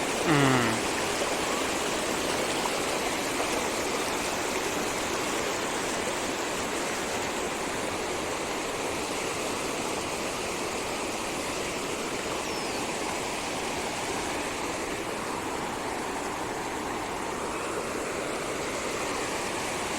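A rain-swollen stream channel rushing steadily, an even wash of flowing water swollen by fresh rainwater runoff.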